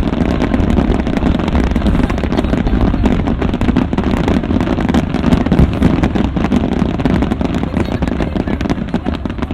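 Fireworks going off in a dense barrage, with rapid crackling and popping bursts overlapping without pause over a low rumble. The barrage starts to thin near the end.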